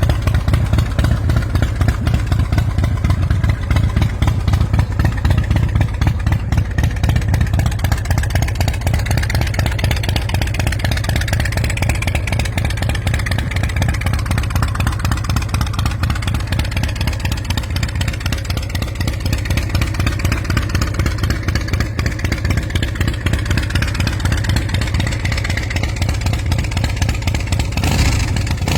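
2006 Big Dog Mastiff custom motorcycle's V-twin engine running, with a steady stream of rapid firing pulses.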